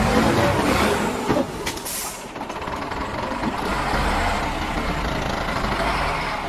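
Heavy diesel engine running with a steady low rumble, with a click and then a short burst of air hiss about two seconds in.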